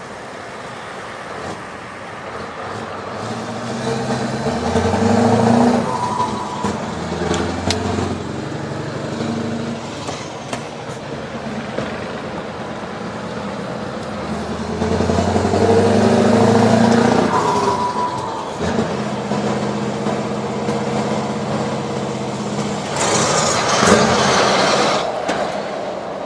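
Scania 4-series 580 V8 diesel truck engine running under way. Its note swells and rises twice, about five and about sixteen seconds in, then holds steady. A loud hissing rush comes near the end.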